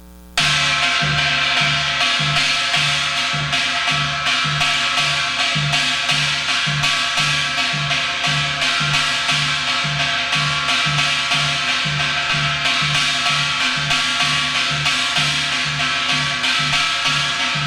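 Korean shaman's barrel drum (buk) and a small hand gong (kkwaenggwari) played together in yang-gojang style, playing the Gyeongsang-province jajinmori rhythm at a fast tempo. Playing starts abruptly about half a second in, with an even pulse of deep drum strokes under continuous metallic gong ringing.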